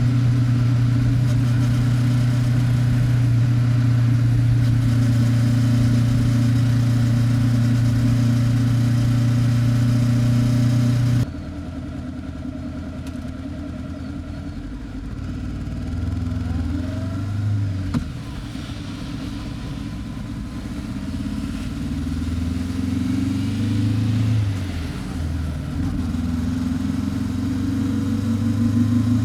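Honda 400X parallel-twin motorcycle with its stock muffler, exhaust running at a steady cruise, then after a sudden drop in level the engine note rises and falls with throttle and gear changes, climbing again near the end.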